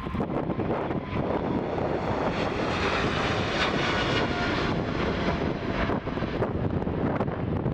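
Boeing 777 twin jet engines passing during departure, the roar swelling to a peak about four seconds in and then fading, with faint whining tones over the rush of noise. Wind buffets the microphone.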